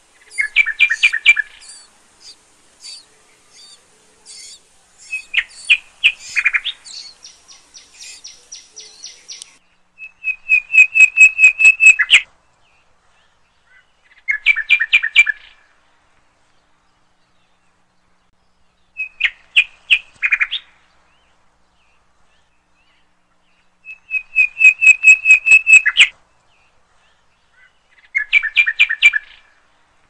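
Small birds chirping in bursts of rapid repeated notes, each burst lasting a second or two, with silent gaps of a few seconds between them.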